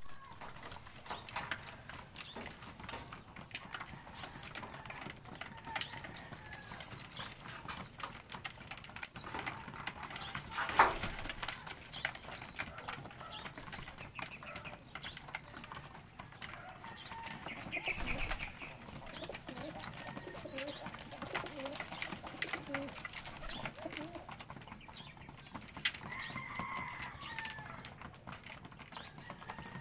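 A flock of birds at feed: wings flapping, with many small quick taps of pecking and short high chirps here and there, most plainly near the end.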